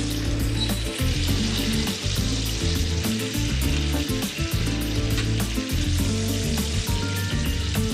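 Marinated chicken tenderloins sizzling steadily as they fry in hot oil in a frying pan, being turned over with metal tongs.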